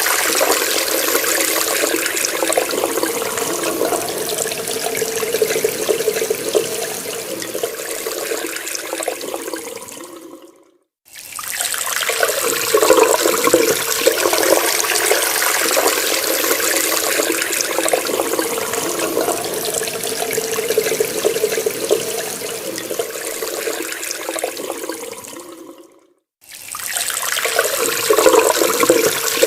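Tap water running steadily from a faucet. The flow fades away twice, about ten seconds in and again near the end. Each time there is a moment of silence and then it starts again abruptly.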